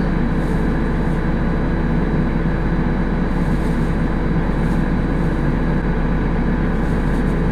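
Tractor engine droning steadily at low working speed, heard from inside the cab.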